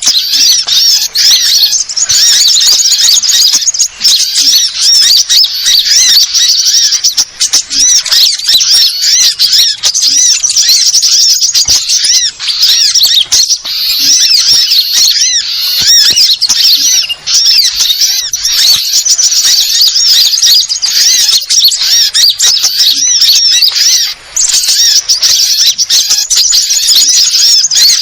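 Dense, continuous chorus of quick, high-pitched chirping and twittering from many small birds, sunbirds, as a bird-lure recording.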